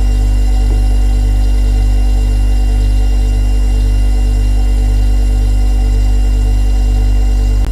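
Refrigerator compressor running with a steady, loud low hum and a few steady higher tones over it. A brief click near the end.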